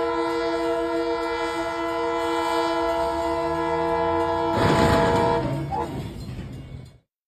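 Locomotive air horn blowing one long steady blast, then about four and a half seconds in a loud crash as the train strikes a military truck at the grade crossing; the horn stops shortly after the impact.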